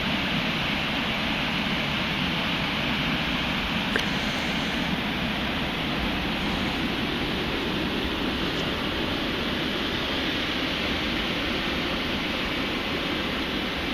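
Ocean waves breaking on a beach, a steady, even rush of surf with no distinct individual wave crashes. A brief click about four seconds in.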